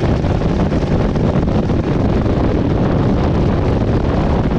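Twin-turbo LS-swapped Chevy S10 under way: a loud, steady, rough engine and exhaust rumble with wind buffeting the microphone.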